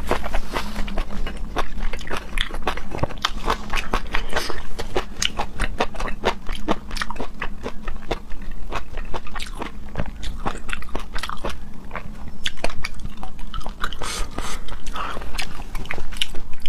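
Close-miked mouth sounds of someone eating raw seafood: chewing and biting with many quick, irregular wet clicks and smacks.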